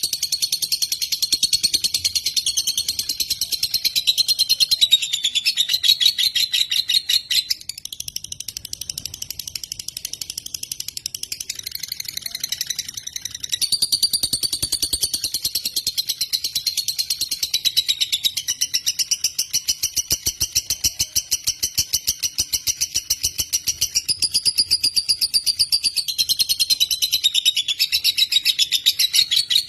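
Lovebird singing a long, unbroken chatter: a very fast string of high chirps that runs on without pause, shifting pitch every few seconds and dropping a little in loudness for a few seconds partway through.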